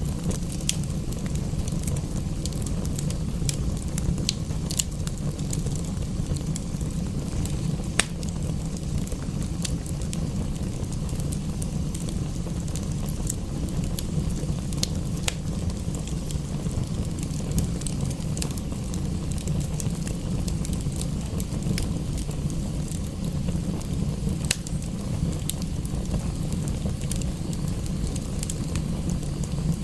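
Wood fire crackling in a fireplace: scattered sharp pops and snaps, a few louder ones such as one about eight seconds in, over a steady low rushing.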